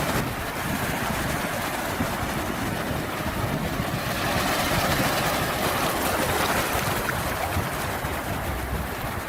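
Sea waves washing in a steady rush of surf, swelling a little in the middle and easing again.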